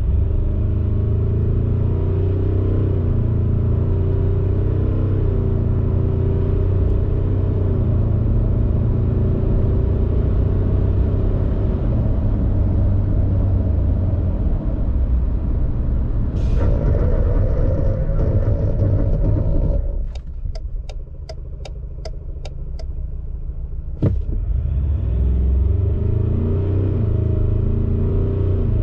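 2022 Ford Ranger Raptor X's 2.0-litre twin-turbo diesel four-cylinder running under load, its pitch climbing and dropping repeatedly. About twenty seconds in it goes quieter for a few seconds, with regular ticking about twice a second. After a sharp knock the engine picks up again.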